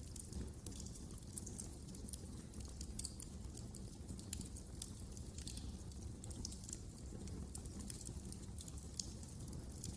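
Wood fire burning in a fireplace: a steady low rumble with dense, irregular crackles and sharp pops.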